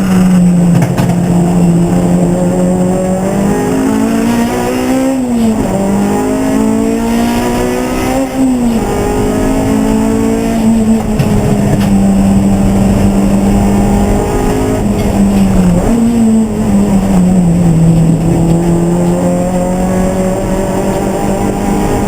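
Race car engine running hard on track, its pitch climbing through the revs and dropping sharply at gear changes and under braking several times.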